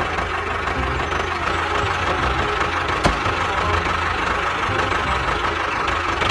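Motor running steadily with a low pulsing hum, and a single sharp click about three seconds in.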